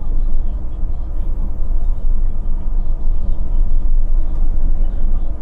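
Scania K450 coach's 13-litre six-cylinder diesel engine running steadily as the bus drives, a continuous low drone.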